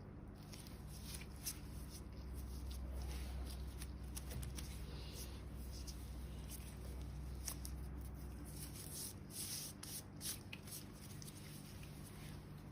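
Close-miked hands rubbing and handling something, with many small crisp crackles and ticks over a faint steady low hum.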